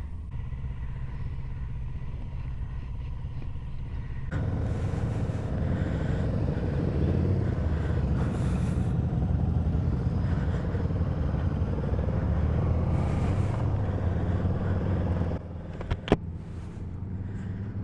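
Motorcycle engine running steadily, getting louder about four seconds in and dropping back near the end, with one sharp click shortly after.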